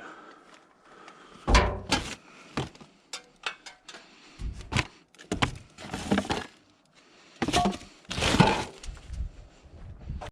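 Scrap items being handled and dropped: a string of irregular knocks, thunks and clatters of metal and wood, the loudest about a second and a half in and again near the end.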